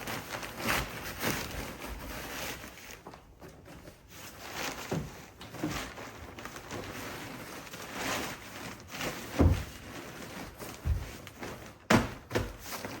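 Foam mattress being pushed and tucked into place on a truck-bed platform: irregular rustling and soft thuds, with a heavier thump about nine seconds in and a sharp knock near the end.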